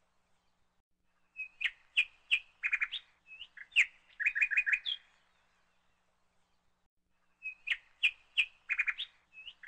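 A bird singing a phrase of quick, sharp chirps lasting about three and a half seconds, then starting the same phrase again near the end.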